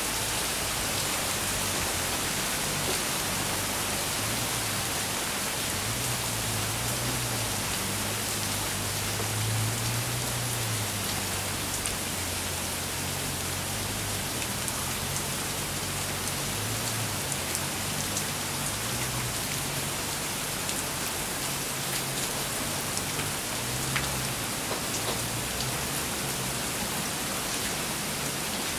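Steady rain falling in a thunderstorm, an even hiss with scattered small drop ticks.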